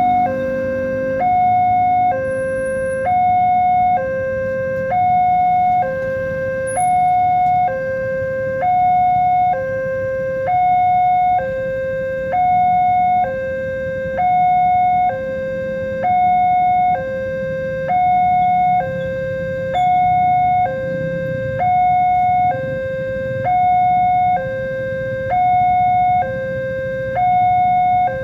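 Indonesian railway level-crossing warning alarm sounding continuously: an electronic hi-lo two-tone, each tone held about 0.7 s, signalling that a train is approaching and the barriers are down.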